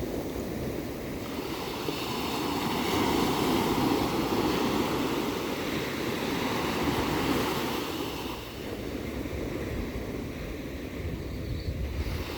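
Ocean surf: a wave breaks and washes in, swelling over the first few seconds, then dying away about eight seconds in to a lower steady wash.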